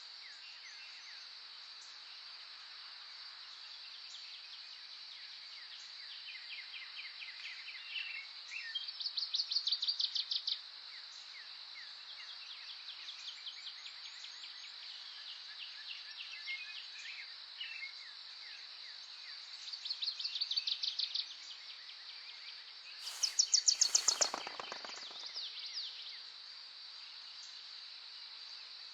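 Birdsong over a steady high-pitched insect drone: a bird sings three fast trills, the last one the loudest, with fainter chirps and calls scattered between.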